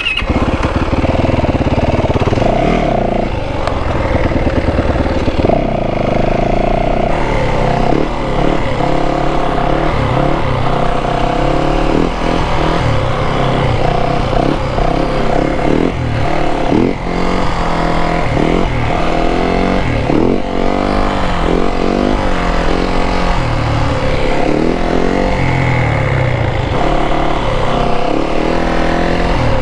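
Motorcycle engine running under way, its pitch rising and falling over and over as the throttle is opened and closed.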